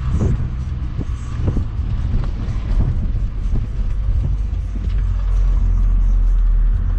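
Inside the cabin of a Mini Cooper S on the move: its supercharged four-cylinder engine runs with a steady low drone over road noise, with a few sharp knocks in the first seconds. From about five seconds in the engine grows louder and holds steady.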